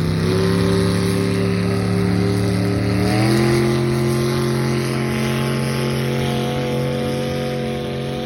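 Engine of a modified pulling garden tractor running hard at steady high revs. Its pitch shifts once about three seconds in, then holds.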